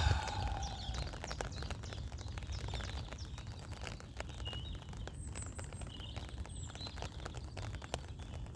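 Birds chirping, with many scattered ticks of raindrops pattering close by over a low steady rumble.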